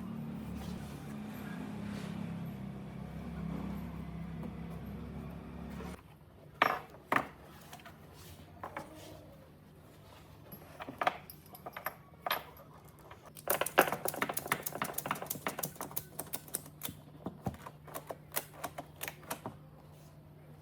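A machine runs with a steady low hum for about six seconds and then cuts off abruptly. After that come a few sharp knocks and scattered taps, then a long flurry of rapid, irregular clicking and tapping, the sound of workshop hand work on wood.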